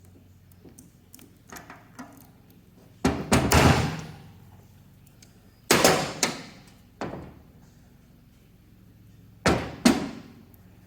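Heavy knocks and clanks of metal parts on the Monarch 10EE lathe's compound slide being struck or handled during teardown. The knocks come in clusters: about three together a few seconds in, two more near the middle, a single one shortly after, and two near the end, each with a brief ring, and small clicks before the first group.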